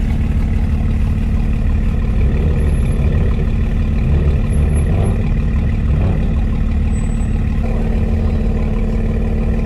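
Car engine idling: a loud, steady low rumble with a constant hum that holds the same pitch throughout.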